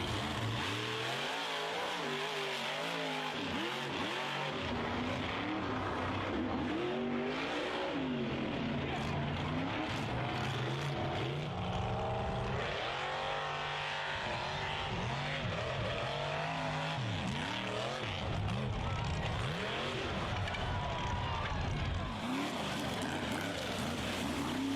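Mud-bog truck engines revving hard, their pitch repeatedly rising and falling, through a string of short clips that change abruptly a few times.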